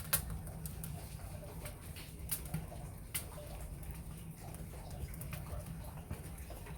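Wood fire burning in a ceramic pot, crackling with scattered sharp pops, the sharpest just after the start, over a steady low rumble. A dove coos faintly in the background.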